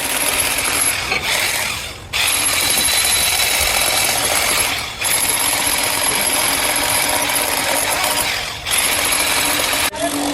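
A power tool working metal, running loud and hard in stretches of a few seconds with short breaks between them.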